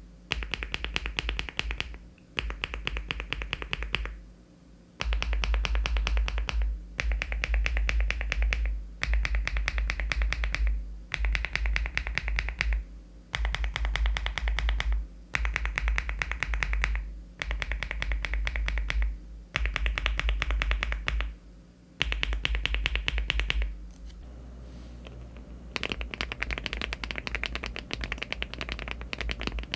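Mechanical keyboard typing on an aluminium LEOBOG Hi75 with HMX switches and Cherry-profile keycaps. Fast runs of keystrokes, each about two seconds long, are split by short pauses. Near the end, after a brief quieter stretch, the clicking becomes steadier and continuous.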